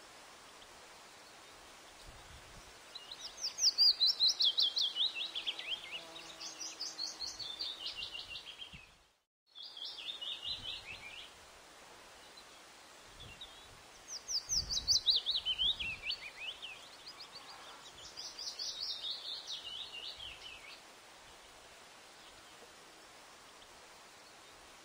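A bird singing: about five phrases of rapid notes, each run sliding down in pitch and lasting one to two seconds, with pauses of a second or more between phrases.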